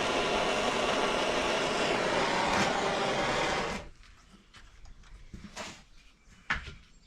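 A steady loud rushing noise from tool work on a bent steel mower blade cuts off abruptly about four seconds in, followed by a few light clicks and knocks.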